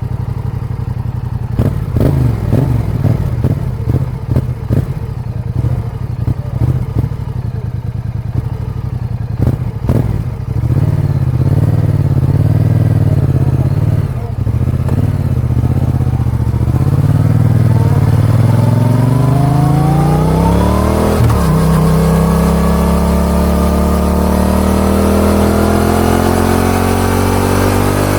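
Yamaha XSR 700's 689 cc CP2 parallel-twin engine through an Akrapovic dual exhaust: it runs low and uneven with clicks for the first ten seconds or so, then pulls away, the note rising under acceleration. About 21 seconds in it drops suddenly at an upshift, then climbs again.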